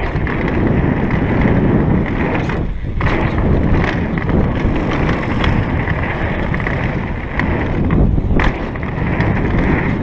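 Mountain bike descending a rough downhill trail at speed: wind rushing over the microphone, tyres rolling over dirt and rocks and the bike rattling, with a few sharp knocks from bumps.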